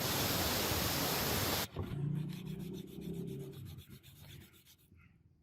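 Power sander grinding on the sword's steel blade, a loud steady rasp that cuts off sharply after about a second and a half. The motor's hum and rattle then fade away as it winds down.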